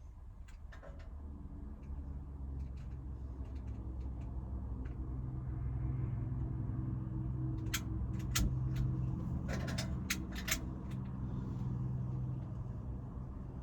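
Low, steady engine hum of a motor vehicle that swells over the first couple of seconds, holds, and eases off near the end. A quick cluster of sharp clicks and knocks comes in the middle.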